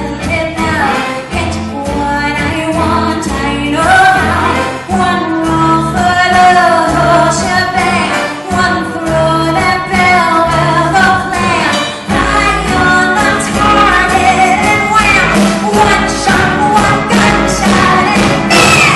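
Live female vocalist belting a show tune over a full band, with drum and cymbal hits growing busier and louder toward the end.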